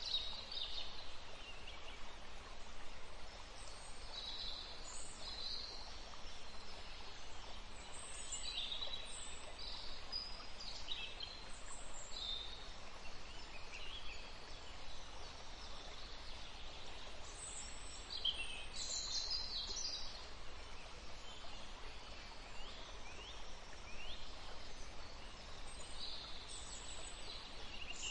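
Small birds chirping on and off, short high chirps, some falling quickly in pitch, over a steady background hiss.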